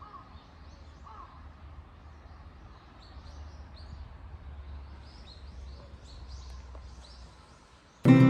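Outdoor ambience with birds calling: a couple of calls in the first second, then a quick run of short, high chirps through the middle, over a low steady rumble. Acoustic guitar music cuts in at the very end.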